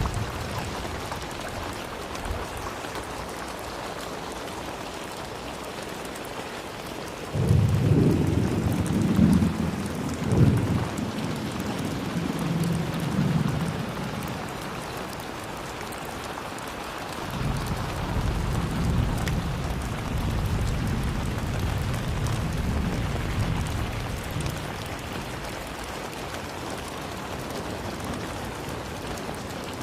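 Steady rain falling, with rolls of thunder rumbling low: one starting about a quarter of the way in with several louder peaks, another building just past halfway and fading out.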